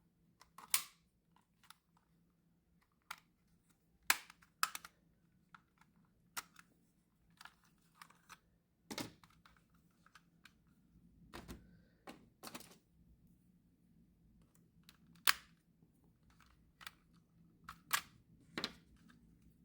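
Irregular light plastic clicks and small knocks as a game controller and tools are handled on a work bench, about twenty scattered sounds with short gaps between.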